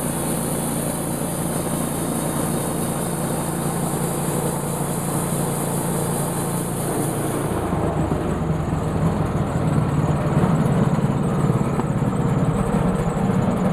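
Sawmill engine running steadily while the saw cuts black walnut, with a high hiss over it. About halfway through the hiss stops and the engine goes louder and rougher, as the cut is stopped.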